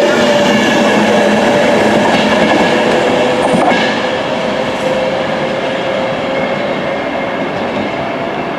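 A Virgin Trains passenger train running along the platform, with wheel and rail noise and a steady whine, slowly fading as it moves away.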